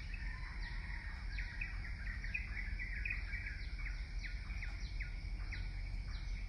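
Birds chirping: short, high, quickly falling chirps repeated about two or three times a second over a low steady rumble.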